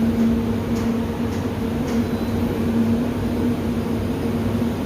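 An HVAC EC fan unit running with a steady drone and a constant hum, with a few faint ticks in the first two seconds.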